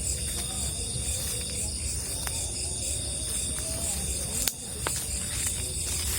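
Night insects, crickets, chirring in a steady high-pitched chorus over a low rumble, with a sharp click about four and a half seconds in.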